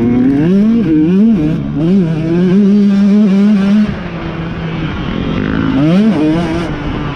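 Off-road racing motorcycle engine revving hard, its pitch rising and falling in quick swings with throttle and gear changes. It is held high for over a second, drops off about four seconds in, and revs up again near the end.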